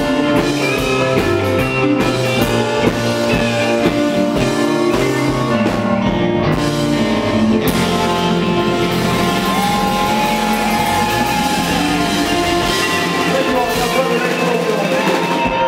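Live rock band playing an instrumental passage with guitars and drum kit, a lead guitar holding a long sustained note about ten seconds in.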